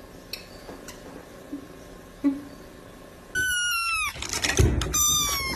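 A cat meowing twice, high-pitched mews that fall in pitch, the first starting about three seconds in and the second near the end, with some low rustling and thumping between them.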